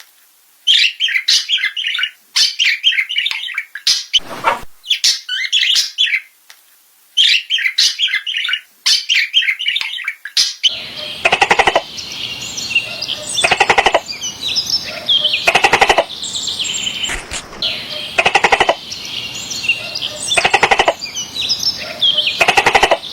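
Small birds singing in quick chirping phrases, broken by short pauses. About ten seconds in, a different recording begins: a harsh bird call repeats about every two seconds over a steady background of chirping.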